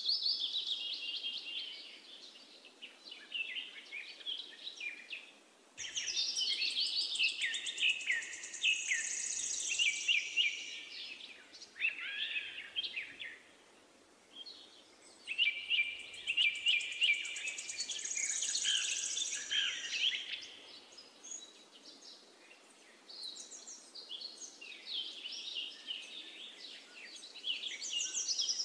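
Songbirds chirping and trilling in bouts of a few seconds, with short pauses between, over a faint steady background hiss.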